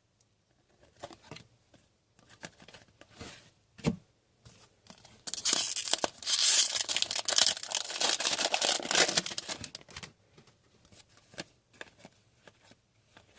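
Foil trading-card pack being torn open, with about five seconds of tearing and crinkling starting about five seconds in. Scattered light clicks and taps come before and after it.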